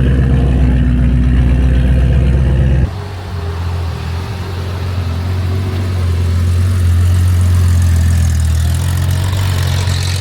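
A performance car's engine running steadily close by, then, after an abrupt change about three seconds in, a different car engine idling with a steady, deep low drone.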